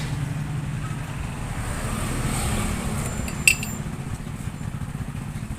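Motorcycle engine running steadily, with a single sharp metallic clink about three and a half seconds in.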